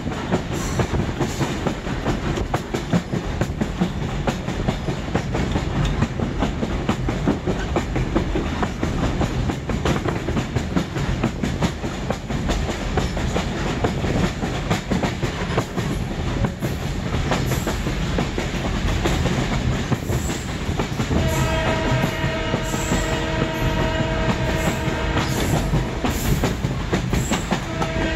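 Railroad passenger car rolling along the track, a steady rumble with wheel clatter heard through an open coach window. About 21 seconds in, the locomotive starts a long blast of its horn or whistle, a steady chord that holds to near the end.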